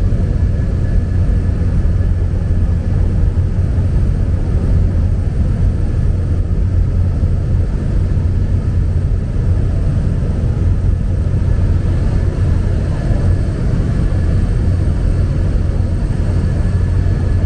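Steady drone of a small propeller plane in flight, heard from inside the cabin: a loud, unchanging low engine and propeller hum with faint steady tones above it.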